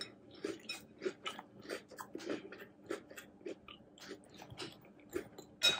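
Close-up chewing of a mouthful of crunchy chocolate cereal with marshmallows in milk: a run of short, irregular crunches, a few a second, with a sharper click near the end.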